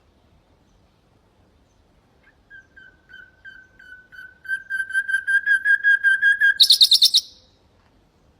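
Common nightingale singing one phrase. It starts about two seconds in with repeated whistled notes, about four a second, that swell in loudness, and ends in a brief, rapid, higher-pitched trill.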